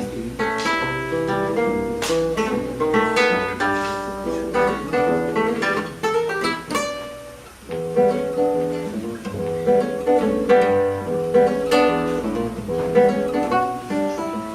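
Acoustic guitar playing a jazz-style piece, with plucked chords and melody lines. The playing thins to a short pause about seven and a half seconds in, then picks up again.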